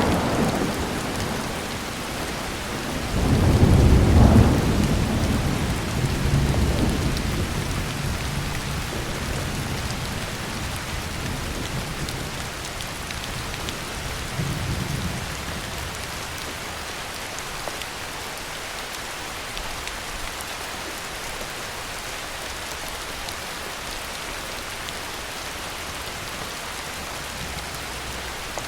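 Heavy rain falling steadily, with thunder: a loud low rumble swells about three seconds in and rolls away over several seconds, a smaller rumble follows near fifteen seconds, then only the rain goes on.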